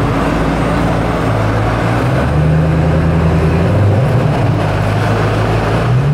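Koenigsegg Agera's twin-turbo V8 running at idle, loud and steady, its pitch shifting up and down a little around the middle.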